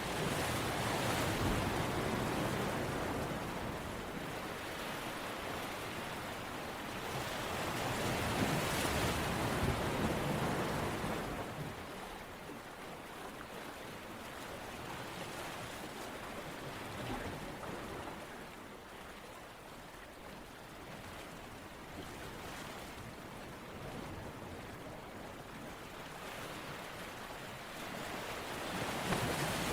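Ocean surf: a steady rush of water that swells as waves wash in and fades as they draw back, loudest near the start, about eight seconds in, and again at the end.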